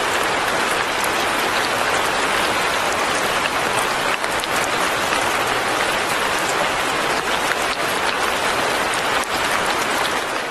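Light rain falling steadily: a dense, even patter with scattered sharper ticks of single drops.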